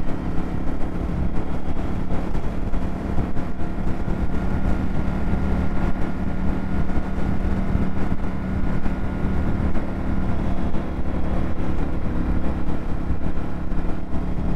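Indian FTR 1200's V-twin engine running at a steady cruise, its note holding one pitch with no revving, over a continuous rush of wind and road noise.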